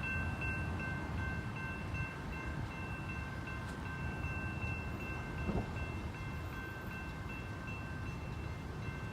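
BNSF double-stack freight train rolling by with a steady low rumble. Thin high ringing tones hold steady above it.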